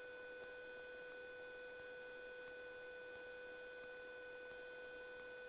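Faint, steady electronic whine: a constant tone with several higher tones above it and no engine noise, typical of electrical interference on an aircraft intercom audio feed.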